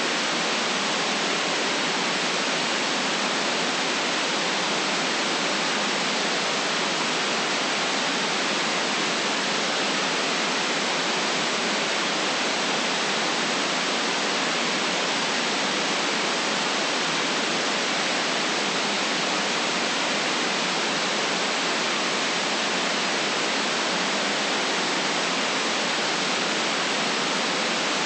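Steady white noise: an even, unchanging hiss with no deep rumble.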